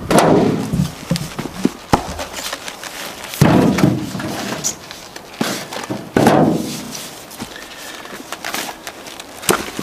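A pickaroon biting into soft, rotten firewood and pieces of wood knocking together, about five dull wooden thunks a few seconds apart. The spike sinks in easily because the wood is rotten through.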